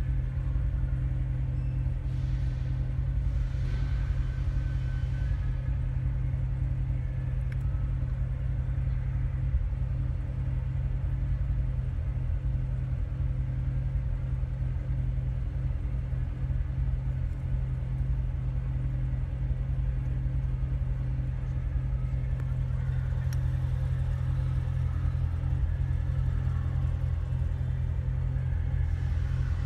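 Supercharged 6.2-litre V8 of a 2015 Corvette Z06 idling in Park, heard from inside the cabin as a steady low rumble, with the dual-mode exhaust set to Track.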